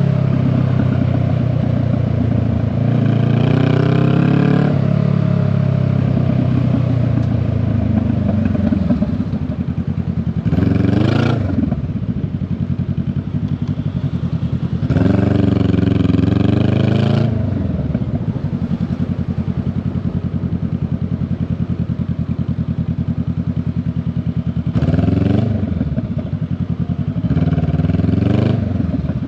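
Honda Rebel 500's parallel-twin engine running under way, its revs rising and falling several times as the bike accelerates and eases off, most sharply about 11 seconds in, with steadier stretches between.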